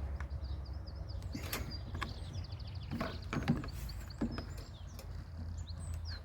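A few sharp clicks and knocks of lawnmower engine parts being handled, with small birds chirping repeatedly and a steady low hum underneath.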